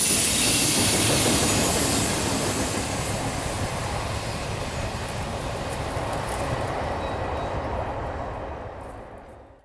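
Freight cars rolling past on curved track: steel wheels on rail, with a thin high wheel squeal over the first two seconds or so. The rumble then slowly dies away as the train recedes and drops out sharply just before the end.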